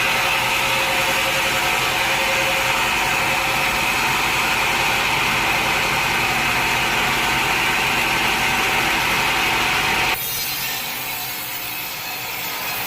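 Sawmill saw running steadily through a log, a loud continuous cutting noise with a high edge. About ten seconds in it switches abruptly to a quieter, duller sawing sound.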